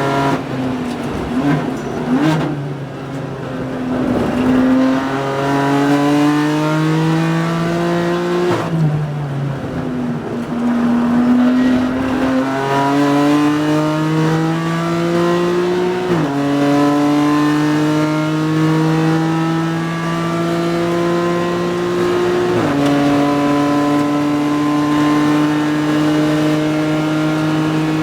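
BMW M4 GT4 race car's twin-turbo straight-six engine under hard acceleration on track. Its note climbs steadily through each gear, with a sudden drop in pitch at each upshift, twice in the second half, and a dip and fresh climb earlier where the driver slows and accelerates again.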